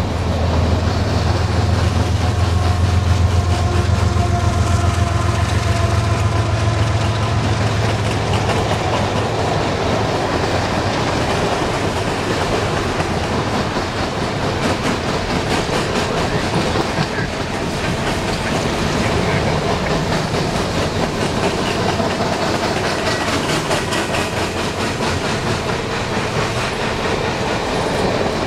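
Freight train of coal cars rolling past: a steady rumble with the clickety-clack of steel wheels over the rails, and a low hum that fades out about ten seconds in.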